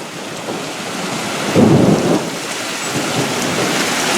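Thunder from a very close lightning strike rumbling over heavy rain. The rumble builds, peaks loudest about a second and a half in, then rolls on.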